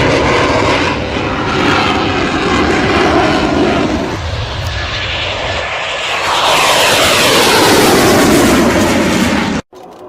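Fighter jet making a low pass, a loud steady jet noise with sweeping, falling tones as it goes by; it cuts off suddenly near the end.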